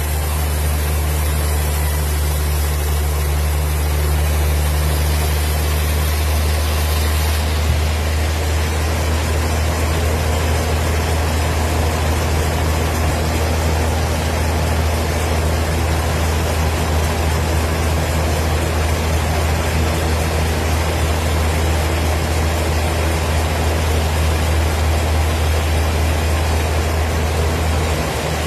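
A wood-cutting machine running steadily: a loud, unbroken low hum under a dense noisy wash, the high hiss dropping and the middle noise thickening about seven seconds in.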